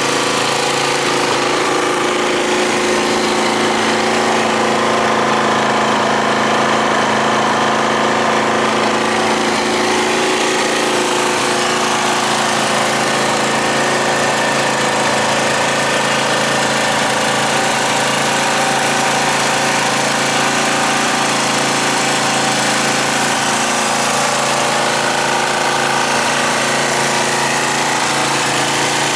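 Suzuki Grass Tracker's single-cylinder engine idling steadily through an aftermarket muffler.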